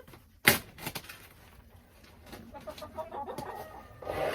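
Domestic hens clucking softly, with one sharp knock about half a second in.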